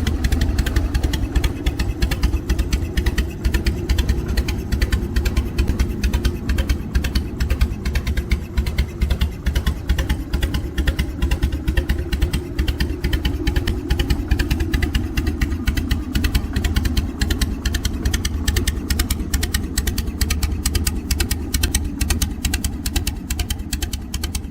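Harley-Davidson Evolution Sportster's carbureted air-cooled V-twin idling steadily as it warms up after a cold start in freezing winter weather.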